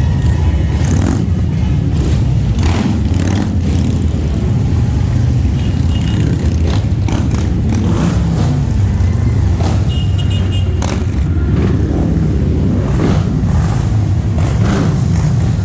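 Many motorcycles riding slowly past in a line, their engines running with a steady low rumble, with two brief high tones about 6 and 10 seconds in.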